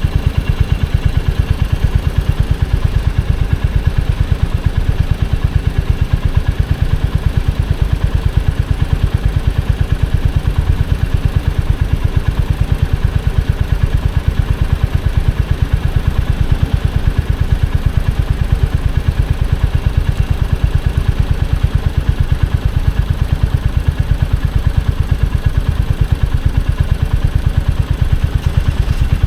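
Royal Enfield Hunter 350's single-cylinder engine running steadily at low revs, its exhaust giving a rapid, even beat.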